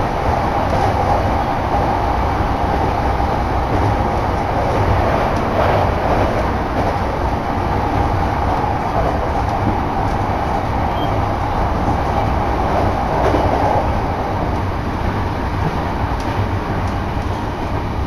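Shonan-Shinjuku Line commuter train heard from inside the carriage, running along the line with a steady rumble of wheels on the rails.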